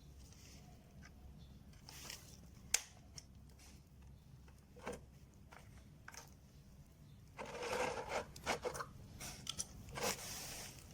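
Handling noises: scattered clicks and knocks, with a longer scraping rustle about seven seconds in and another near ten seconds.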